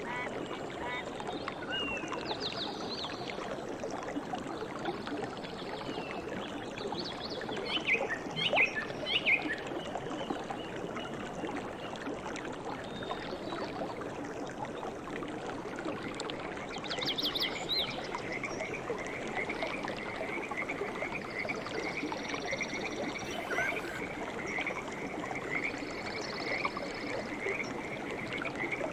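Nature soundscape: a chorus of frogs over a steady background of water, with short bird calls about eight to nine seconds in and a rapid pulsing call that joins from about halfway through.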